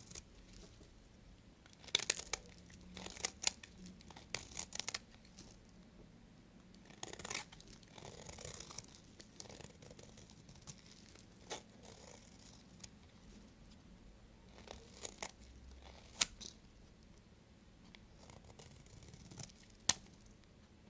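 Bar soap being cut with a knife: bursts of crisp, crackling cuts with pauses between them, and one sharp snap near the end.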